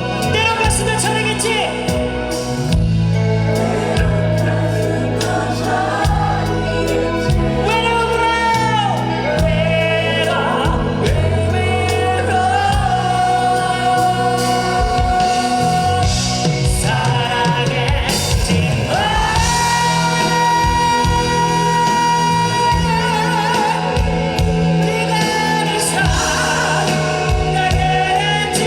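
Live rock band performing a slow ballad: bass and drums under a lead melody carried in long, bending held notes.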